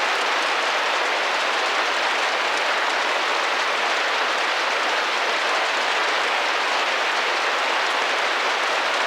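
Rain drumming gently against a window pane: a steady, even hiss of many fine taps that does not rise or fall.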